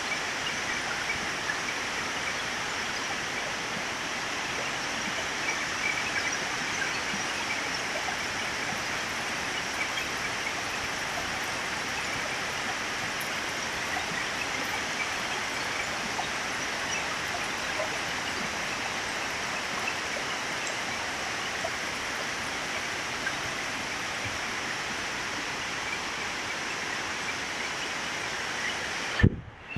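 Heavy rain pouring down in a steady, dense hiss. Near the end there is a sharp click and the sound cuts out.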